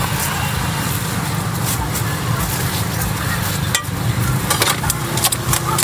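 An engine running steadily at a low pitch, with a few light clicks and clatters in the last two seconds.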